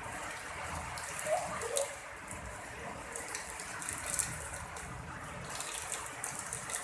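Rain pouring down steadily, a dense hiss of falling water with many small splashes and spatters.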